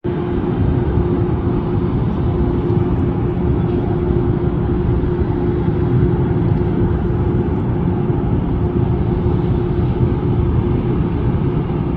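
An engine running steadily: a low rumble with a constant hum that does not change.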